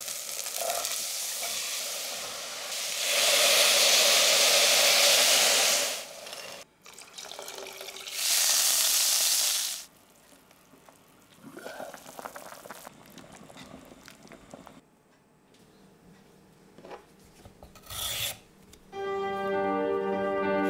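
Food sizzling in hot oil in a pan, with two loud spells of a few seconds each, then quieter clinks and handling sounds. A light music track comes in near the end.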